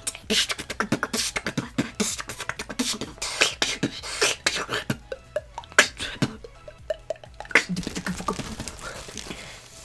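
Beatboxing after inhaling helium: fast mouth-made kick, snare and hi-hat clicks for about five seconds, then sparser beats with a few short pitched vocal sounds, trailing off near the end.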